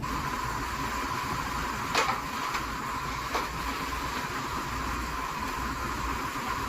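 Steady workshop hum with two sharp clicks, about two seconds in and again about a second and a half later, from parts being refitted during reassembly of the car's cooling system.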